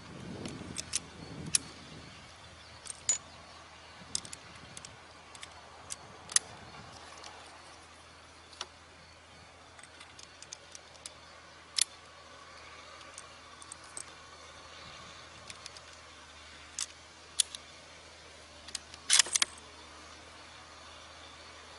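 Scattered sharp, small clicks and light rattles at irregular intervals, with a quick cluster near the end: a bolt-action rifle and its scope being handled between shots.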